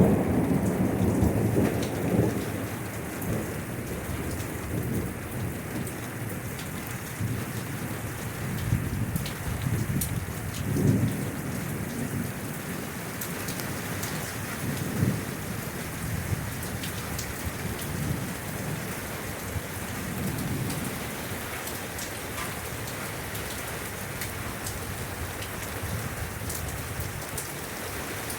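Steady rain falling, with scattered drops ticking on a surface. Low rolling thunder is loudest at the start and dies away after a couple of seconds. Further softer rumbles swell up about 11, 15 and 20 seconds in.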